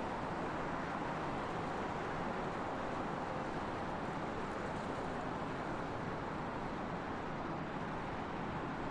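Steady, low-level road and traffic noise with no clear engine note.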